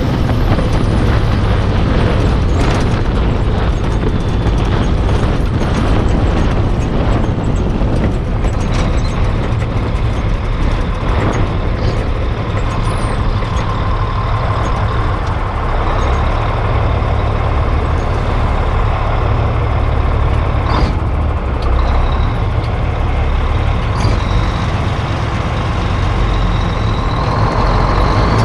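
Heavy diesel truck running steadily at road speed, a continuous low engine drone with a few brief clicks and knocks.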